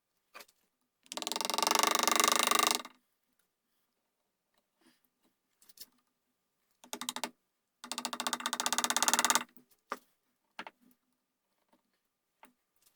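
A hand tool working the wood of a gunstock while inletting the buttplate: two long bursts of rapid, fine rasping strokes, the first about a second in and the second later in the clip, with small knocks and taps between.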